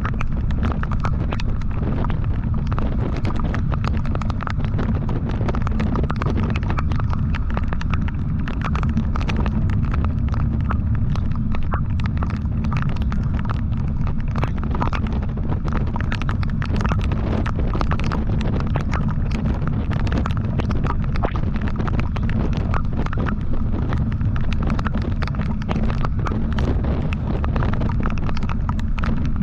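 Motorcycle on the move: steady engine rumble mixed with wind buffeting on the microphone, with a rapid irregular crackle over it.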